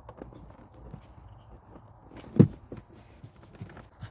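Scattered light knocks and taps from handling work in a car's interior, with one louder knock about two and a half seconds in: trim and carpet being put back into place over the cabin filter housing.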